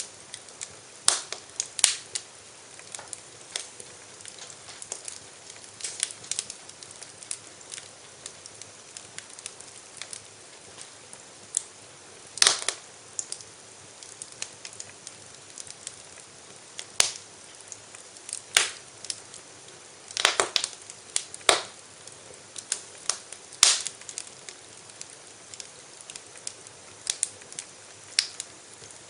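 Wood fire in a fireplace crackling: irregular sharp pops and snaps of burning logs over a soft hiss, with a few louder cracks scattered through.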